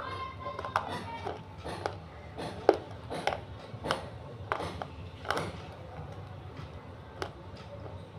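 Close-up chewing of a soft piece of white eating clay: short moist clicks and crunches about every half second, thinning out after about five and a half seconds. The clay is too soft to crunch properly.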